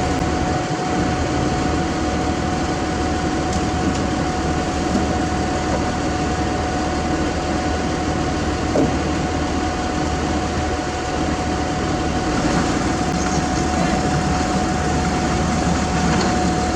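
Heavy diesel machinery engine running steadily, with a constant low hum and a steady whine above it.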